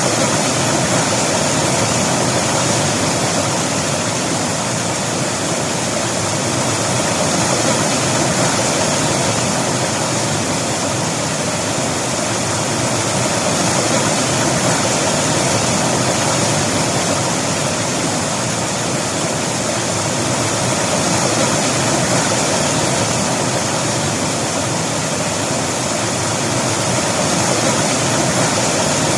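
River water rushing and splashing over rocks: a steady, loud, unbroken rush.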